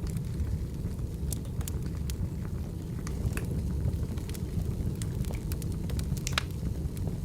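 Wood fire burning: a steady low rumble of flames with irregular sharp crackles and pops of burning firewood, one louder pop a little past six seconds in.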